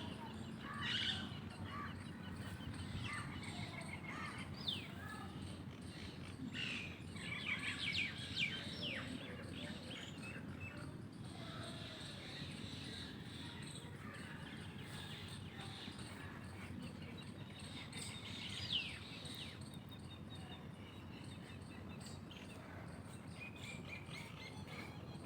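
Small birds chirping and calling, with short trills and a few quick whistled sweeps, over a steady low background rumble.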